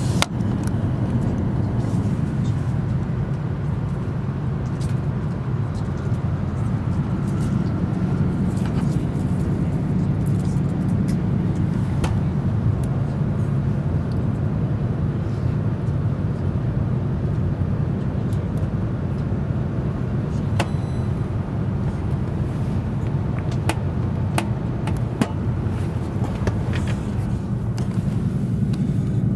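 Cabin noise inside an E7 series Shinkansen running along the line: a steady low rumble of the train in motion, with occasional light clicks close to the microphone.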